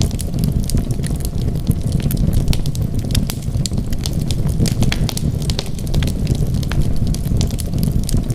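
Wood fire burning in a fireplace: many quick, irregular crackles and pops over a steady low rumble of flames.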